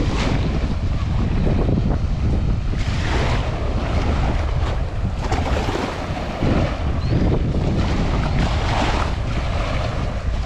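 Strong wind buffeting the microphone in a constant low rumble, over waves breaking and washing up the shore, the surf hiss swelling and fading every few seconds.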